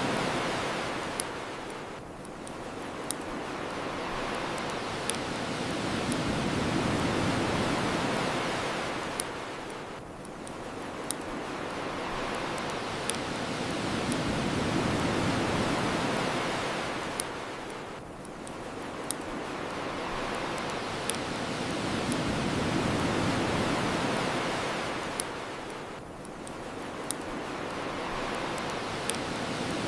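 Ocean waves washing onto the shore in slow swells about every eight seconds, with the sharp crackles and pops of a wood bonfire scattered over them.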